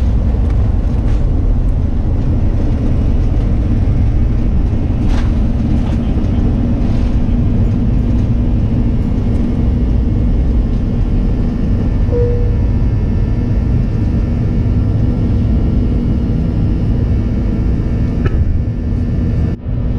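Loud, steady rumble of an Airbus A340-300's four CFM56 engines and the airflow, heard from inside the cabin, with a steady hum over it. The level drops briefly just before the end.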